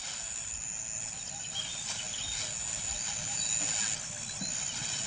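Natural bush ambience: a steady high-pitched insect drone with a few faint short bird chirps.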